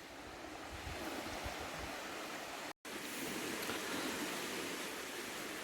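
Gentle waves washing on a rocky beach, a soft steady rush that cuts out for an instant about three seconds in.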